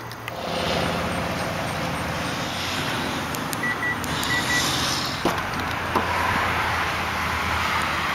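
A car running, with a steady low hum under road noise. A few clicks and two short falling tones come about five and six seconds in.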